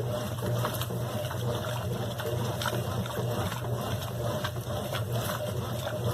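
Brastemp BWQ24 washing machine running a cycle with water inside: a steady low hum with irregular sloshing and splashing over it.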